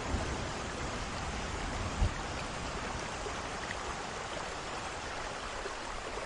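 Heavy rain falling steadily, with one brief low thump about two seconds in.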